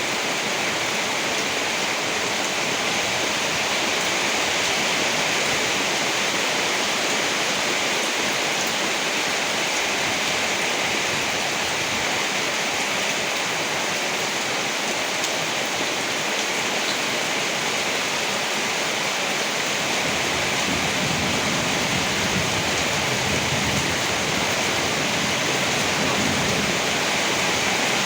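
Steady heavy rain hissing without a break. In the last third a low rumble swells for several seconds and fades.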